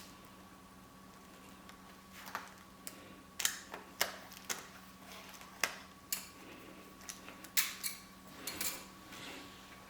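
Scattered light clicks and taps of hands working a lace frontal and dome cap with a curved needle, irregular and a little louder between about two and nine seconds in, over a faint steady hum.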